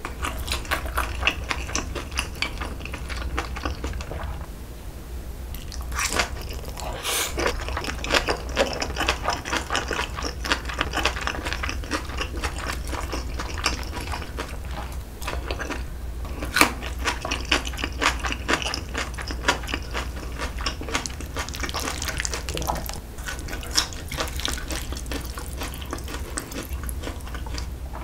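Close-miked chewing of soft, chewy braised pig's trotters (jokbal): a steady run of wet mouth clicks and smacks over a low steady hum.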